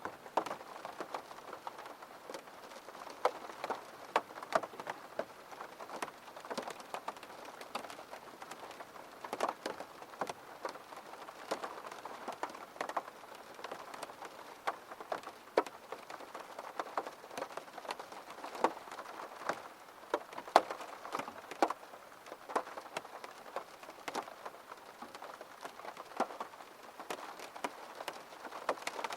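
Gentle rain falling, with many separate drops striking close by at an irregular pace over a steady hiss.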